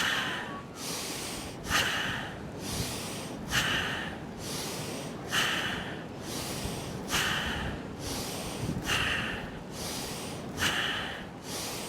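Bhastrika (bellows breath) pranayama: a man breathing forcefully in and out through the nose, the belly pumping like a bellows. Seven hissing breath strokes come at an even pace, about one every second and three-quarters.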